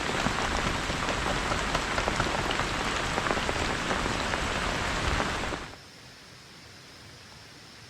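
Heavy rain falling, a dense steady patter with many sharp drop hits, which cuts off abruptly about five and a half seconds in, leaving only a faint steady hiss.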